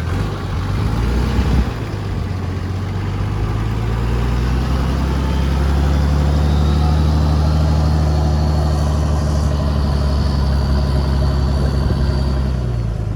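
A 4x4's engine pulling slowly up a steep hill. Its steady low note rises a little in the first few seconds, holds, and drops back shortly before the end.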